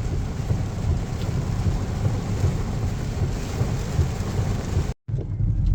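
Heavy rain on a moving car with steady low road noise, heard from inside the cabin. The sound cuts out abruptly for a moment about five seconds in.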